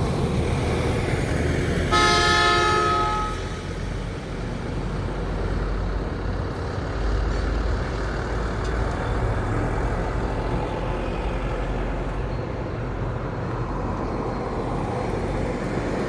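A vehicle horn honks once, for about a second, about two seconds in, over the steady low rumble of truck engines and road traffic.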